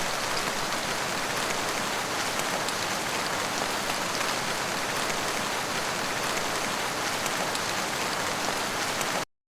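Steady, even rain-like hiss that cuts off suddenly near the end.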